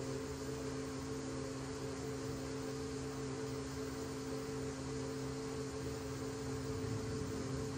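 A machine switches on and runs steadily, with an even hum of two tones under a broad hiss.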